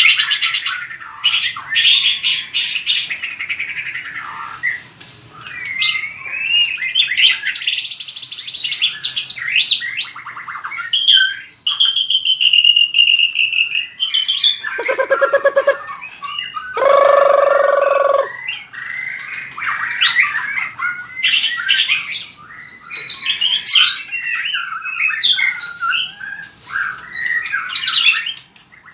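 White-rumped shama singing a long, varied fighting song of rapid whistles, trills and sliding notes, with two lower, harsher notes about halfway through.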